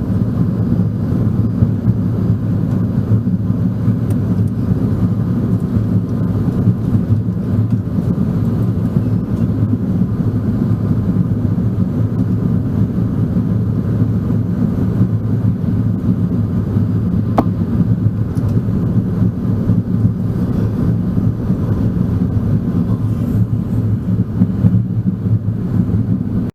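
Steady low rumble of airliner cabin noise inside an Airbus A380, the airflow and engine noise of the aircraft in flight, with a faint click about seventeen seconds in.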